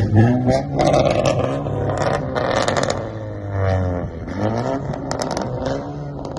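Car engine revving several times, its pitch rising and falling with each rev over a steady low running sound.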